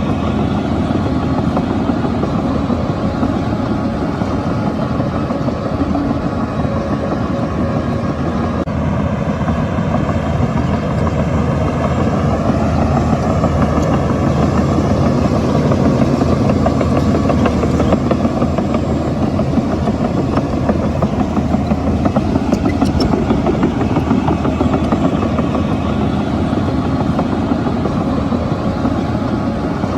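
Shantui crawler bulldozer's diesel engine running steadily under load while it works. The engine note rises and falls a little about halfway through.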